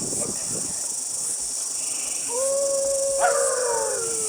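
A long howl-like call starts about two seconds in, is held on one pitch and then falls away, with a second falling call overlapping it. Under it is a steady high hiss.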